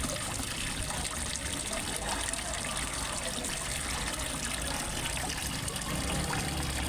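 Water trickling and splashing steadily into a fish pond, as from a small waterfall feeding the pond.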